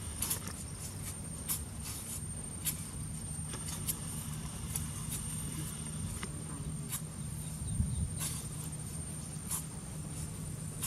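Sharp knocks, about one every second or so, over a steady high insect-like drone and a low hum.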